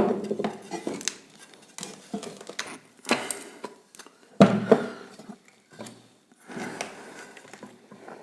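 Metal parts of an old washing-machine motor clanking and scraping as the casing is opened and the rotor worked out, with several sharp knocks that ring briefly.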